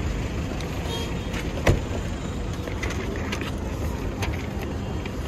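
Steady low rumble of vehicle engines idling, with one sharp knock about a second and a half in and a few fainter clicks.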